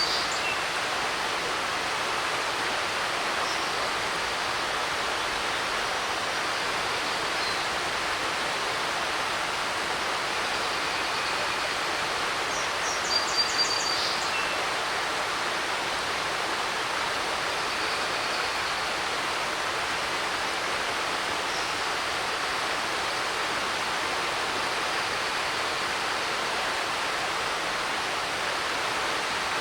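Creek water rushing steadily over rocks, a hiss like television static. About thirteen seconds in, a songbird sings one short phrase of a few quick high notes ending in a trill.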